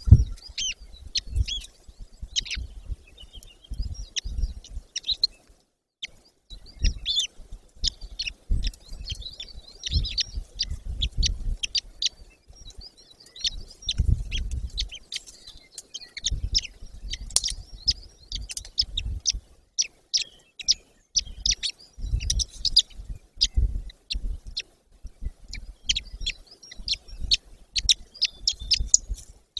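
High, short bird chirps repeating over and over, with low rumbles and thumps underneath and a brief lull about six seconds in.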